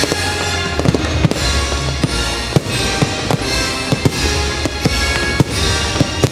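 Fireworks bursting in repeated sharp bangs at uneven intervals, over loud show music.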